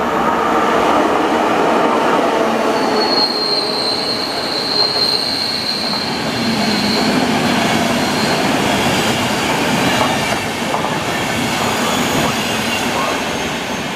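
A train running past at close range, its wheels rumbling and clattering over the rails, with a high steady wheel squeal from about three seconds in that lasts several seconds.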